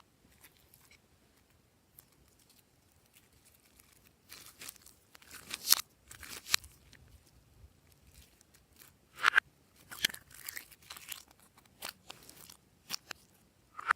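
Glossy slime being squished and stirred by hand, giving irregular crackly, crunchy squishes in clusters with short quiet gaps between them.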